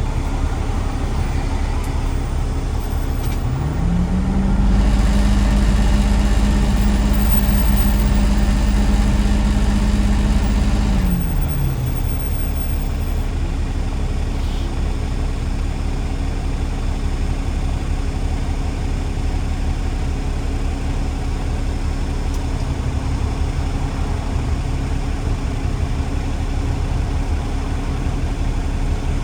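Road vehicle engine running steadily, rising in pitch about four seconds in as it accelerates, holding there for about seven seconds, then dropping back and running on at a steady drone.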